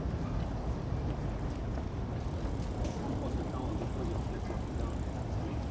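Outdoor city ambience: a steady low rumble with faint, indistinct voices in the background.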